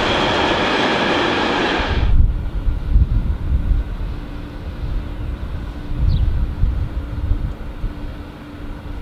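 Loud rolling rail noise of a container freight train passing close by, cut off abruptly about two seconds in. After that, gusty wind rumbles on the microphone with a faint steady hum.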